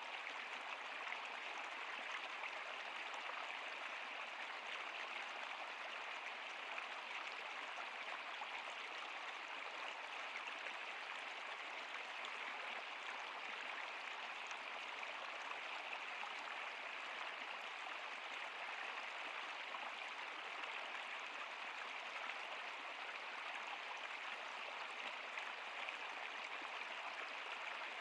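Steady rushing and babbling of a stream or river flowing over stones.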